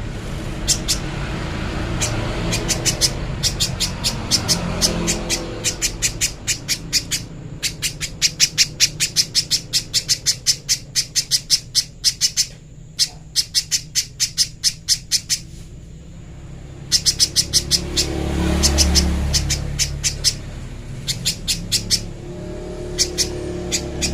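A spiderhunter calling in long runs of short, sharp, high notes, about three a second, with brief pauses between runs. A low rumble swells underneath at times.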